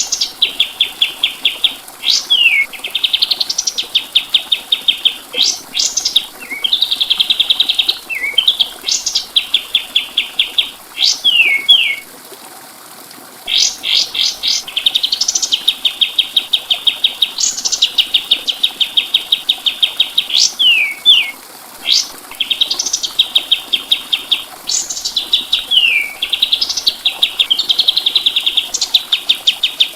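Kapas tembak songbird singing loudly, a tutor song for training cage birds. Its phrases are fast, even rattling trills, each lasting a second or two, broken by sharp whistled notes that sweep downward. The bird pauses briefly near the middle.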